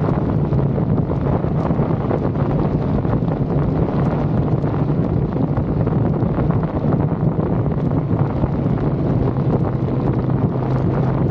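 Wind buffeting the microphone on a moving motorcycle, over a steady low engine drone.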